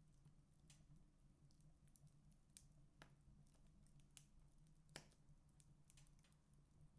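Wood fire crackling in a fireplace: faint, irregular pops and snaps, the loudest about five seconds in, over a faint low hum.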